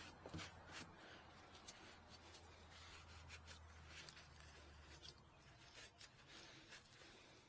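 Near silence, with faint scattered clicks and light rubbing from parts being handled.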